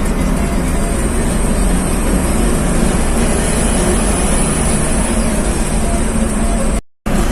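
Modified truck's engine and exhaust running steadily on the road, with a dense droning exhaust note and road noise. The sound cuts out abruptly for a moment near the end.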